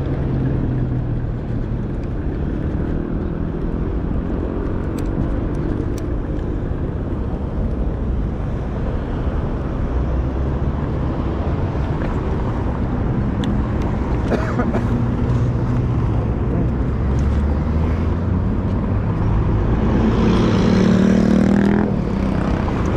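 Road traffic going past as a steady low rumble of engines, with a louder vehicle passing near the end.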